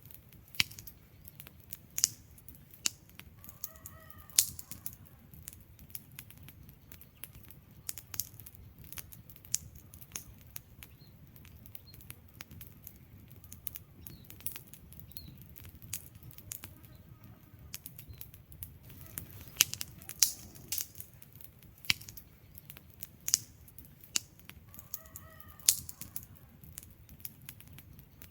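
Wood fire crackling in a fireplace: irregular sharp pops and snaps over a low steady rumble of burning. Two brief faint whistles come through, about four seconds in and near the end.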